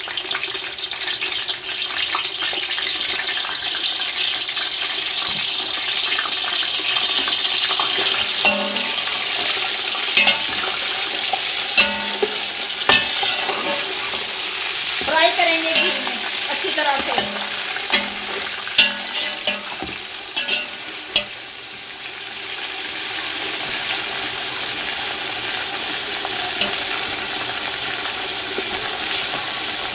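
Chicken pieces sizzling as they fry in hot ghee in a large metal pot, a steady hiss. A steel slotted spatula scrapes and clicks against the pot as the pieces are stirred, mostly through the middle stretch.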